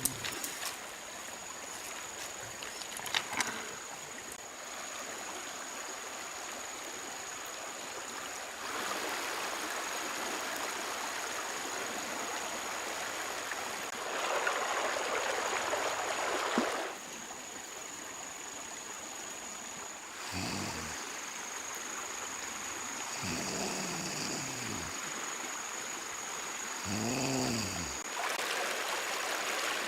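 Running stream water, swelling for a few seconds in the middle, under a steady thin high whine. In the last third come three short calls from an animal, each rising and falling in pitch.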